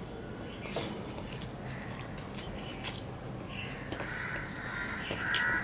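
Close-up mouth sounds of a person chewing a mouthful of rice and fish curry, with scattered soft clicks and smacks as fingers mix rice on a steel plate.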